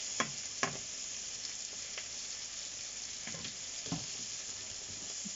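Tomatoes frying in a pan: a steady sizzle, broken by a few sharp clicks.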